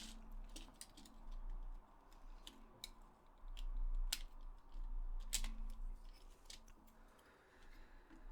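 Scattered light clicks and taps of a PS4 controller's small plastic and metal parts being handled during disassembly, as a loose screw is worked out by hand.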